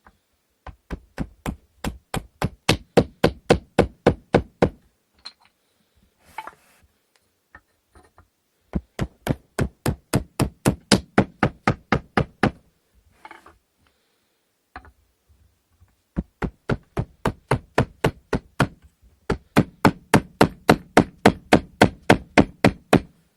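Quick hammer blows on the wooden parts of an inkle loom, knocking pieces into place during assembly. They come in three runs of about four or five blows a second, with short pauses between runs.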